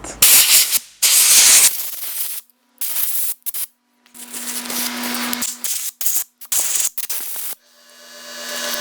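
Compressed-air blow gun blasting sandblasting dust off freshly blasted brake caliper parts, a hiss that comes in a string of short blasts of varying length with brief pauses between them.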